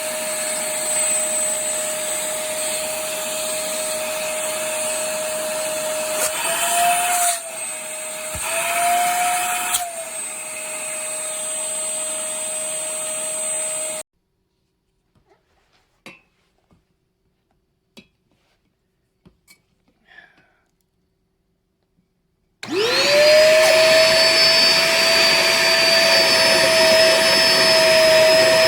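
Compact wet-dry vacuum motor running with a steady whine; about halfway through its pitch rises briefly twice. It then cuts off abruptly, leaving a few faint clicks, and near the end it starts up again, spinning up quickly to a steady whine.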